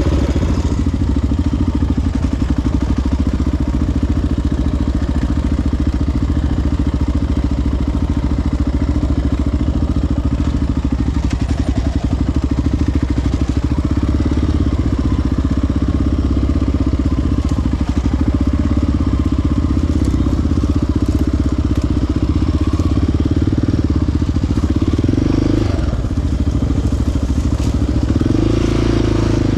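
Single-cylinder four-stroke sport ATV engine running steadily under way, with a brief lull near the end before the revs rise again.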